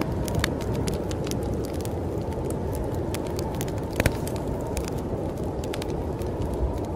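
Wood fire crackling with irregular sharp snaps and a louder pop about four seconds in, over a steady low rush of storm wind.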